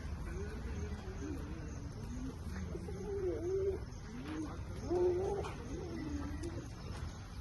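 Pigeons cooing: a series of low, wavering coos with a steady low hum underneath.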